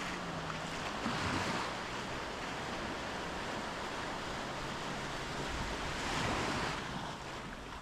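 Small sea waves breaking and washing up a sandy beach, a steady rush of surf that swells about a second in and again near six seconds.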